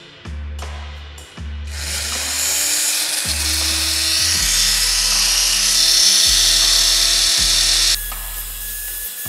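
A small high-speed rotary tool spins up about two seconds in, runs steadily with a loud hiss, and stops suddenly near the end, over background music with a bass beat.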